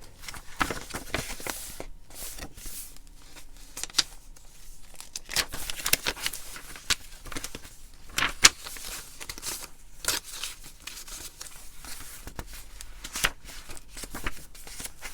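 Pages of a handmade paper journal being turned and handled: rustling and crinkling of paper with irregular sharp clicks and taps.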